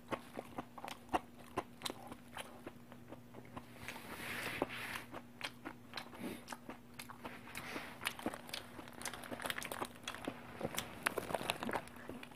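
A person chewing a barbecue hamburger: many small wet mouth clicks and smacks, with a fresh bite taken near the end.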